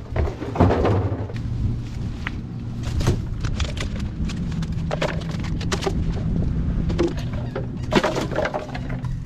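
Repeated knocks and clatter of plastic trash being picked up and dropped into a barrel, over a steady low hum.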